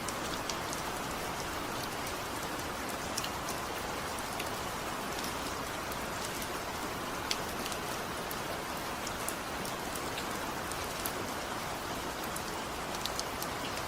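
Heavy steady rain falling, a dense even hiss with the sharp ticks of individual drops hitting a surface scattered throughout, and no thunder.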